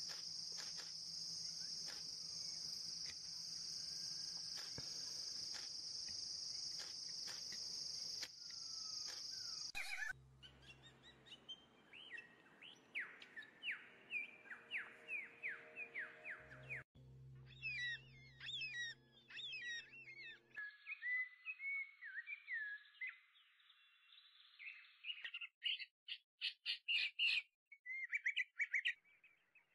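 Recorded bird chirps and calls in quick series, in short clips that change abruptly. For about the first ten seconds a steady high-pitched drone comes before them.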